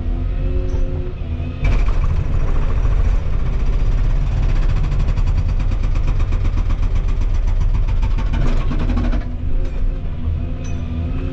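Volvo 235EL excavator's diesel engine running, rising in level under hydraulic load for about seven seconds with a fast, even pulsing, then dropping back to a steadier tone near the end.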